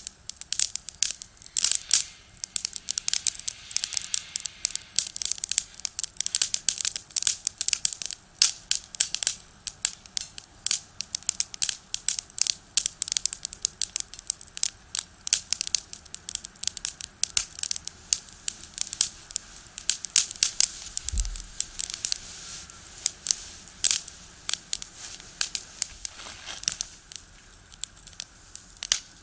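Firewood crackling and popping as it burns in a box stove: dense, irregular snaps, with a brief low thud about two-thirds of the way through.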